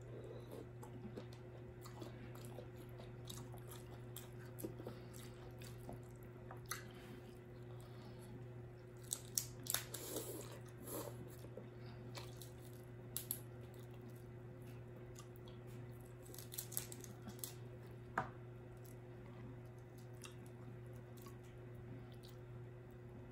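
Close-up eating sounds of people chewing, with scattered small clicks and crunches, a few louder ones bunched around the middle, over a steady low hum.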